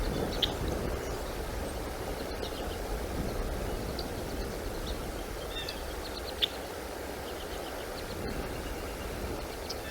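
Scattered short, high bird chirps over a steady low outdoor rumble, with one sharper chirp about half a second in and another about six and a half seconds in.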